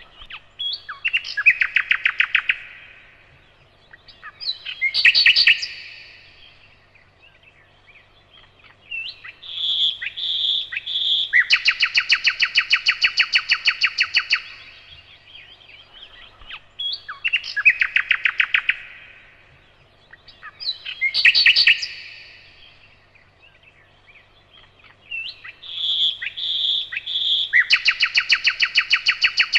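A nightingale singing in separate phrases of rapid trills and clear whistled notes, including three whistles followed by a fast rattling trill several seconds long. The same run of phrases repeats exactly about every 16 seconds, as a looped recording does.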